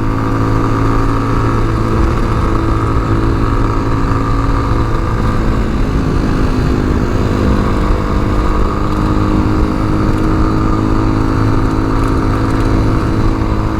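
Tao Tao TBR7 dual-sport motorcycle engine running at a steady cruising speed while riding, its pitch easing and rising a little now and then, over a constant rush of wind noise.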